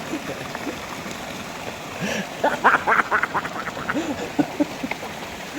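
Steady rush of river water. About two and a half seconds in comes a short, loud burst of rapid cackling, about eight strokes a second, followed by a few softer voice-like sounds.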